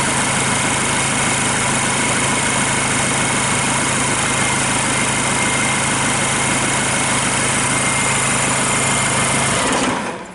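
Kia Sorento D4CB 2.5-litre four-cylinder diesel engine, run out of the car on a test stand, idling steadily, then shut off near the end and going quiet within a fraction of a second.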